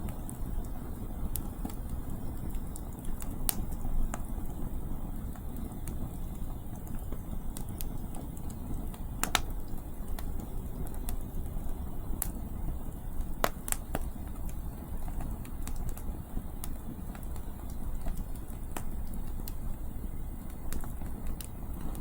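Wood campfire crackling, with scattered sharp pops from the burning firewood over a steady low rumble of wind on the microphone.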